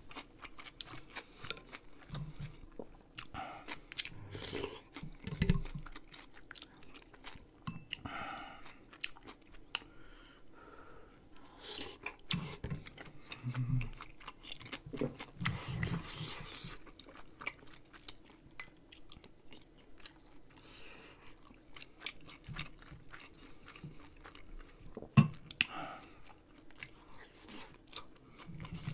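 A person chewing food close to the microphone, with irregular small clicks and a few louder bites.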